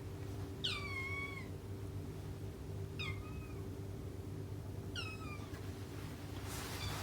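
Scottish Fold kitten meowing three times in high-pitched calls, the first the longest with a falling pitch. A steady low hum runs underneath, and a short rush of noise comes near the end.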